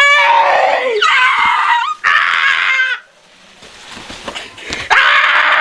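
Loud, high-pitched human screaming: three long screams one after another, a short lull, then another near the end.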